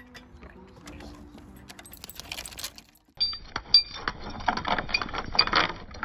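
Metallic jangling and clinking, a dense run of small ringing clicks that starts about halfway through and is loudest in the second half.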